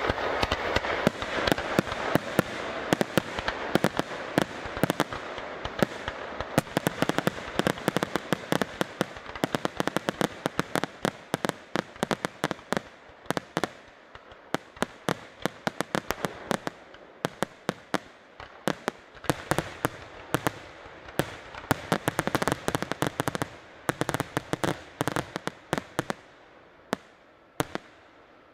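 Aerial fireworks display: a rapid, dense barrage of shell bursts, many sharp bangs and pops a second over a continuous hiss. The bangs thin out and fade away near the end.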